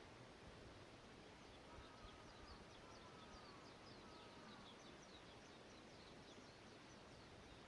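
Faint birdsong over quiet background hiss: a rapid run of short, high, falling chirps, about three a second, starting a second or so in and going on to near the end, with a few longer, lower whistled notes early in the run.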